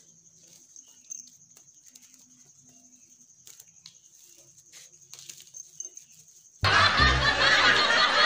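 Faint background with a steady high whine and a few soft clicks. About six and a half seconds in, loud music with canned laughter cuts in suddenly, a comic sound effect laid over the video.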